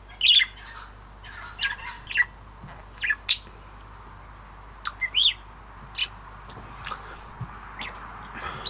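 Birds chirping and squawking in short, scattered calls, a dozen or so spread over several seconds.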